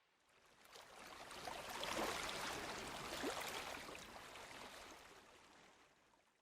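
Faint rush of water with small splashing crackles, swelling for about two seconds and then slowly fading away.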